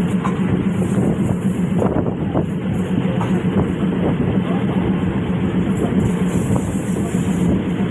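Diesel railcar train running on the line: a steady engine drone under continuous wheel-on-rail noise, with scattered faint clicks.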